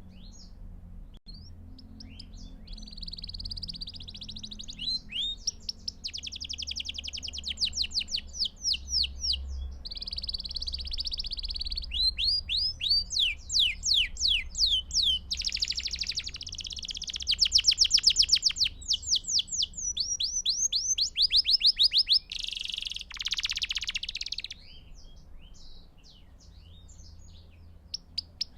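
Belgian canary singing a long song of rapid trills and rolls, one phrase after another at different speeds. Near the end comes a harsher, buzzy phrase, after which the song drops to a few faint chirps.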